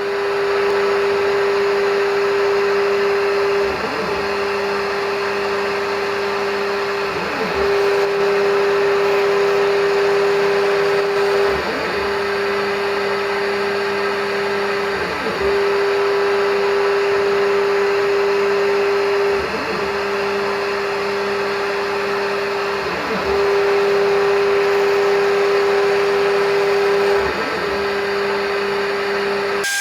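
Machine tool running under its electric motor: a steady hum with a constant whine, dipping briefly about every three and a half seconds in a regular cycle.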